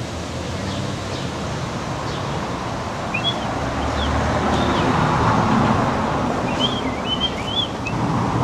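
Steady outdoor rumble like wind, with small birds chirping: a few short chirps about three to four seconds in and a quicker run of chirps near the end.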